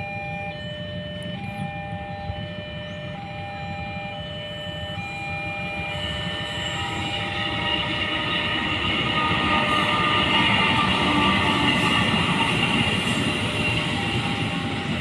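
A two-tone electronic warning alarm alternates between its tones about once a second, then stops about six seconds in. Meanwhile a train's running noise grows louder as it comes by and stays loud to the end.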